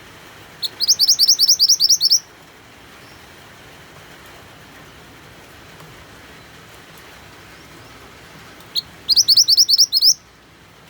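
Mantenan songbird singing two bursts of rapid, high, rising chirps, about ten notes each, one about a second in and one near the end, over a steady hiss of rain.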